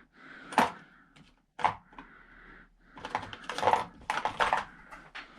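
Metal hand tools clinking and clicking: sockets being picked up, swapped and fitted onto a bolt. A few separate clicks, then a quick run of clinks in the second half.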